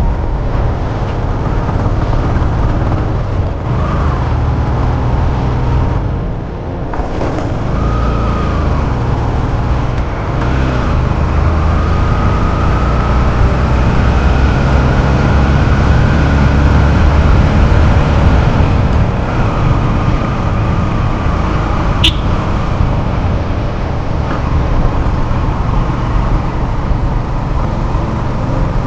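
Motorcycle on the move: a steady rumble of engine and road noise, with a faint held tone in the middle stretch and one sharp click about 22 seconds in.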